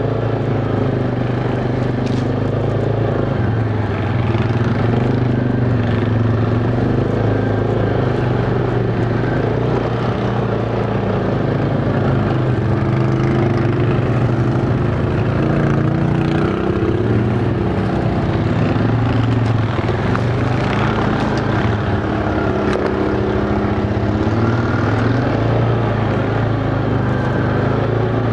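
ATV engine running steadily under way, its pitch stepping up and down as the throttle changes.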